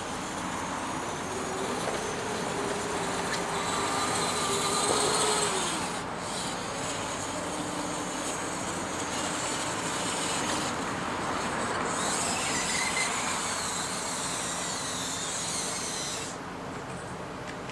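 Small electric motors whining under a steady hiss, their pitch shifting up and down as they work, typical of the hydraulic pump and drives of an RC4WD scale hydraulic excavator.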